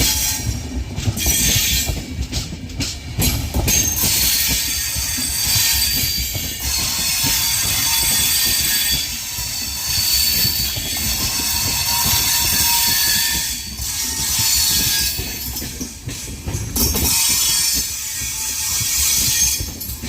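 A train rolling past on the rails, its wheels squealing with thin high tones over a steady rumble and clatter of the cars.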